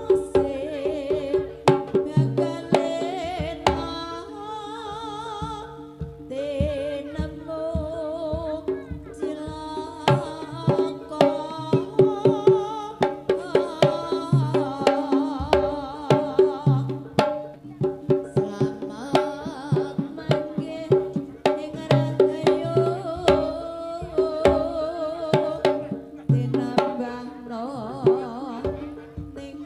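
Javanese gamelan dance accompaniment: hand-drum strokes in a fast, steady rhythm, with a wavering high melody over held metallic tones.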